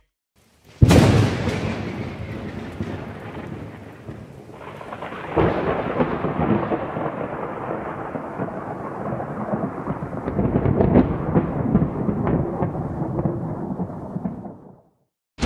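Thunder: a sudden sharp clap about a second in that rolls away, then a second long rumble from about five seconds in with crackling peaks, fading out near the end.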